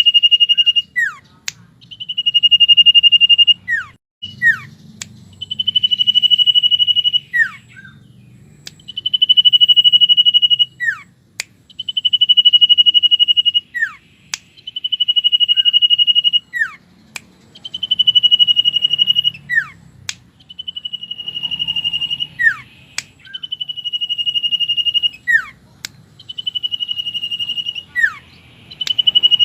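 Common iora (cipow) singing a repeated phrase: a long, steady high whistle followed by a quick falling note, about every three seconds. Sharp clicks fall between the phrases.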